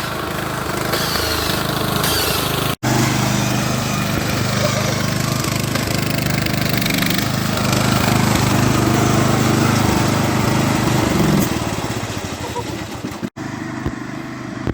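Riding lawnmower, its front pulley swapped for a bigger one to go faster, running hard as it is driven past; the engine is loudest in the middle and fades near the end. The sound cuts out for an instant twice.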